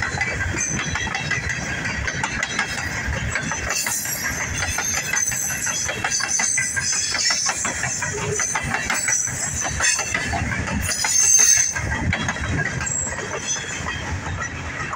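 Freight train of open-top hopper cars rolling past, steel wheels clicking and rattling over the rail joints with thin high-pitched wheel squeals. The rattle is loudest about eleven seconds in and eases as the last car goes by near the end.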